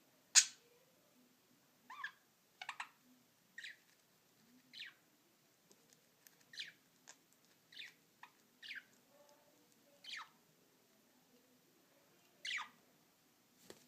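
Budgerigars giving short, sharp chirps and squawks as they play-fight, spaced about a second apart, with the loudest squawk near the start.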